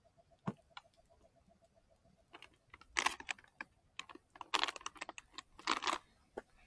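Camp cooking gear and packaging being handled: irregular sharp clicks, taps and short rustles, coming in bunches about three, four and a half and six seconds in.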